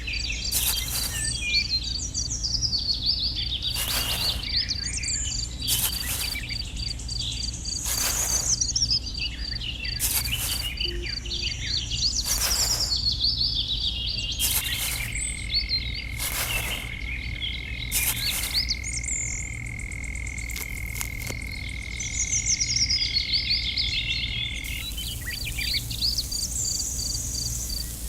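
Outdoor nature ambience: birds chirping over a pulsing insect drone, with short croak-like calls about every two seconds and a steady high whine through the middle.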